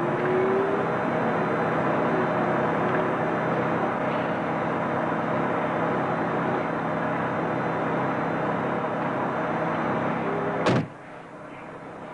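Ferrari engine idling steadily, heard from inside the cabin. About three-quarters of the way through, a car door slams shut with a single sharp thud, and the engine sound drops sharply and turns muffled.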